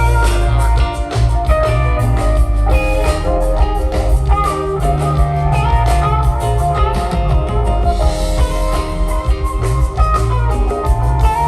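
Rock band jamming instrumentally: electric guitar playing over bass and a steady drum kit beat, heard live.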